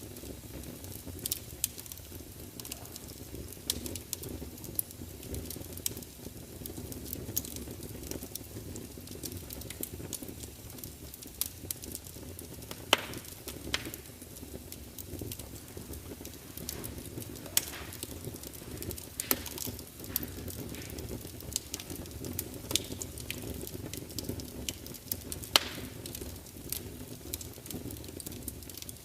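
Wood fire burning in a large fireplace: a steady low rumble of flames with a continual run of small crackles and sharp pops from the burning logs. A handful of the pops stand out louder, including one about two-thirds of the way in.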